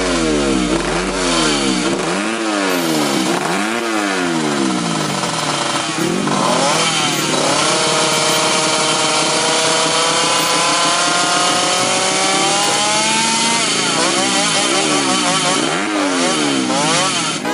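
Motocross dirt-bike engines revving hard, the pitch rising and falling about once a second as the throttle is worked. Through the middle, one long rising pull as a bike accelerates, then the quick up-and-down revving returns near the end.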